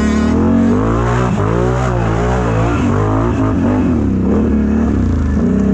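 Mega truck's engine revving hard, its pitch rising and falling again and again in quick surges, typical of a truck working its throttle through deep mud.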